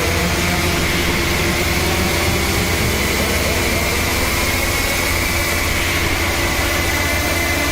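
Industrial electronic drone music: a dense, steady wall of noise with a low rumble, a held mid tone and a high hiss, with no beat.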